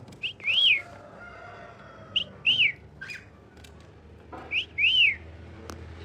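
Pet parrot whistling the same phrase three times, about two seconds apart: each time a short high note followed by a longer whistle that rises and falls.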